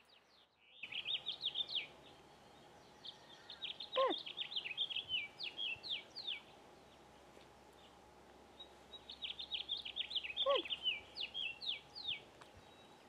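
Songbird twittering outdoors in three quick runs of short, high chirps, with a longer note falling in pitch heard twice.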